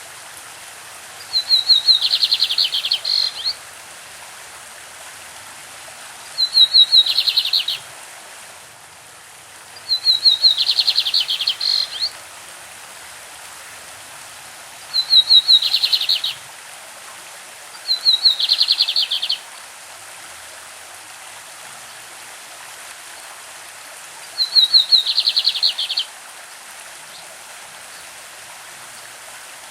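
Lined seedeater (bigodinho) singing six short phrases of its 'classic' song, spaced a few seconds apart. Each phrase is a quick run of sharp notes flowing into a buzzy trill. A steady rushing of a stream runs underneath.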